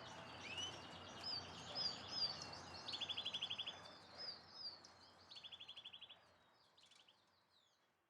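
Small birds chirping and twittering, with two rapid trills about three and five and a half seconds in; the sound fades out near the end.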